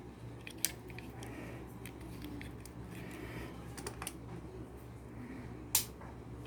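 Scattered light clicks and taps of small hard objects being handled, with two sharper clicks about half a second in and near the end, over a low steady hum.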